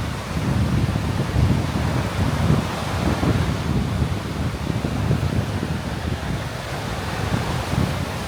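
Sea wind buffeting the microphone in uneven gusts, a low rumble over a steady wash of surf breaking on the beach.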